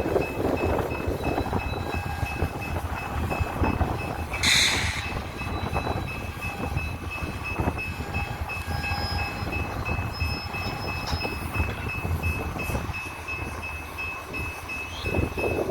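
Loaded coal train rolling slowly through the yard: a steady low rumble of locomotives and cars with scattered clanks and knocks. A short, loud hiss comes about four and a half seconds in, and a faint steady high tone runs underneath.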